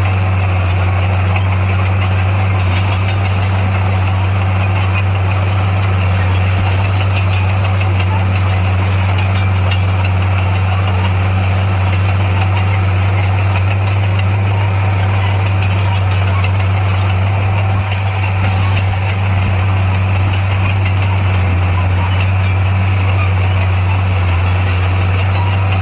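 Heavy construction machine's diesel engine running at a steady speed with a constant low drone.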